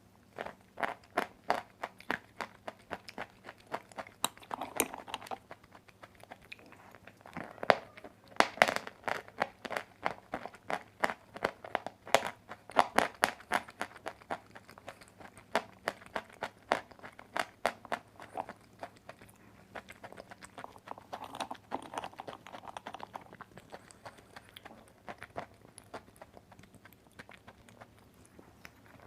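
Close-miked chewing of dry white clay: a long run of crisp, sharp crunches, several a second, thinning out in a few short lulls.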